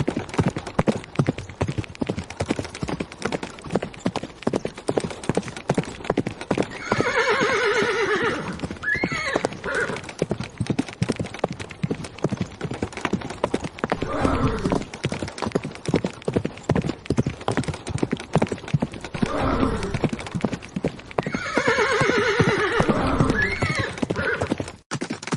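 Horses galloping, a dense run of rapid hoofbeats, with a horse neighing loudly twice (about 7 seconds in and again near 21 seconds) and lower calls in between.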